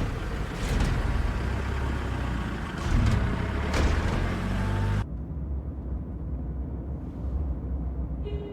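Motor vehicle engine and road noise, a heavy low rumble. It is loud at first, then drops off sharply about five seconds in to a quieter, steady rumble.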